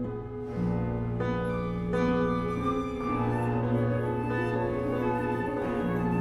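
Contemporary classical music for solo bassoon and small chamber ensemble: layered held notes over a sustained low note, with new entries about half a second and a second in.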